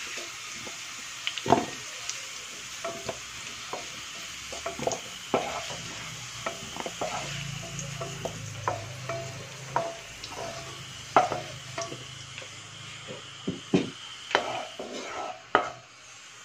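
Diced potatoes and carrots sizzling in oil in a non-stick wok, with a wooden spatula stirring and scraping them out, its many short clicks and taps against the pan over the steady frying hiss. The sizzle drops off near the end as the pan is emptied.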